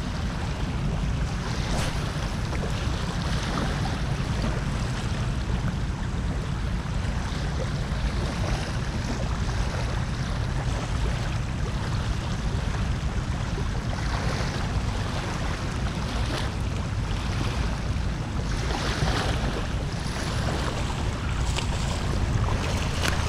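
Wind buffeting the microphone in a steady low rumble over the continuous rush of water pouring from a drainage outflow, with a few faint clicks and splashes.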